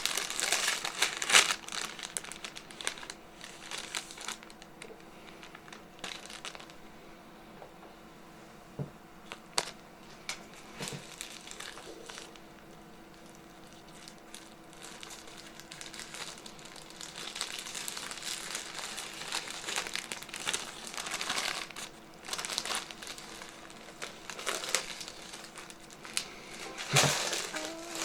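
Mylar foil balloon crinkling and rustling as it is handled and filled, in spells, with a quieter stretch in the middle and a sharp knock near the end.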